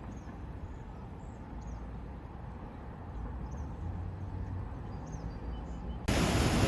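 Outdoor ambience: a steady low wind rumble with a few faint, short high chirps. About six seconds in it cuts abruptly to a louder, even rushing noise like wind or running water.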